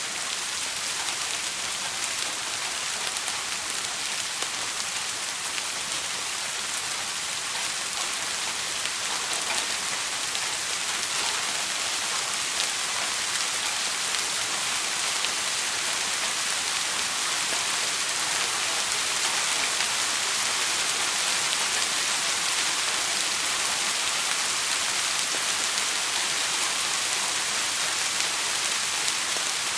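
Steady rain falling: a dense, even hiss with scattered faint ticks, unbroken and without thunder.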